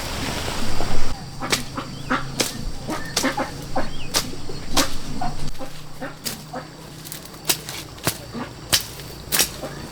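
A rush of noise for about the first second, then a run of sharp, irregular knocks or taps, roughly one or two a second.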